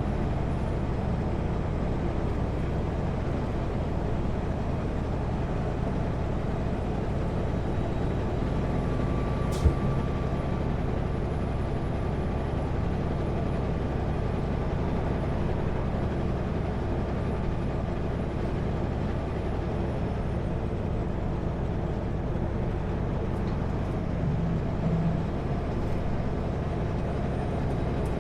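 Steady drone of a Kenworth W900L semi truck's diesel engine and road noise while driving on the highway, with one sharp click about ten seconds in.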